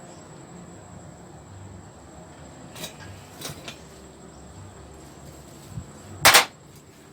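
A few light clicks of a wrench tightening a slack carburetor mounting bolt on a small engine, then a single short, loud noise near the end.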